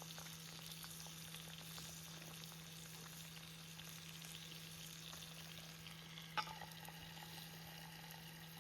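Food sizzling and frying in a pan, a fine steady crackle over a low hum. About six seconds in, a utensil clinks once against the metal and it rings briefly.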